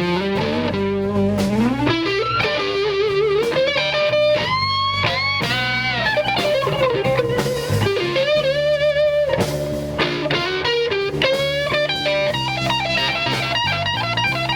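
Slow blues played by an electric guitar, bass and drums. The guitar takes a solo of bent, wavering single notes, with some notes held long, over a steady bass line and drums.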